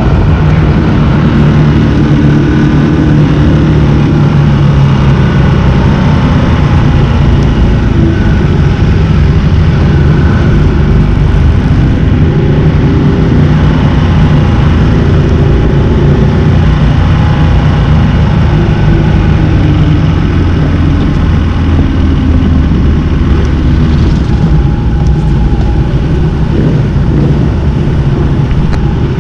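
Motorcycle engine at track speed heard through an onboard camera, the revs rising and falling through gear changes, over heavy wind noise.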